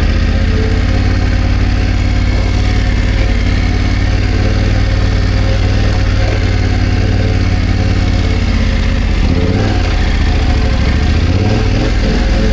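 BMW F900GS parallel-twin engine running steadily at low revs, with the engine speed changing a little about three quarters of the way through and again near the end.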